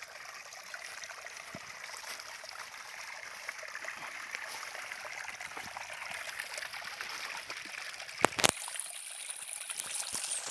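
Stream water running steadily, growing slowly louder. About eight seconds in come a couple of sharp knocks, then a thin high steady tone for about two seconds.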